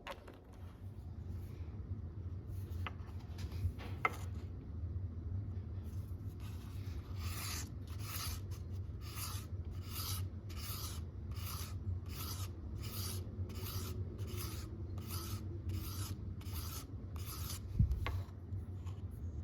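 Hand rubbing strokes on a restored leather awl, a steady run of about two scraping strokes a second over a low steady hum, ending with a thump near the end.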